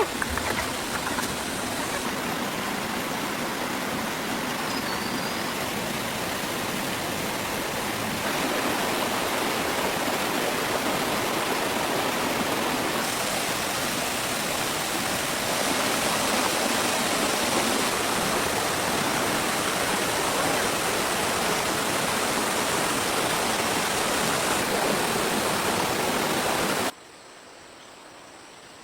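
Steady rush of running water, a stream or falls, with the level stepping up and down at a few cuts. It drops abruptly to a much fainter background near the end.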